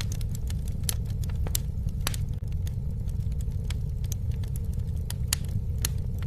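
Campfire crackling: sharp pops and snaps, a few each second, over a steady low rumble.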